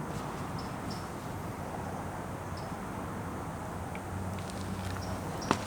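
Outdoor ambience: a steady low hum and background noise, with a few short high chirps scattered through and one sharp click near the end.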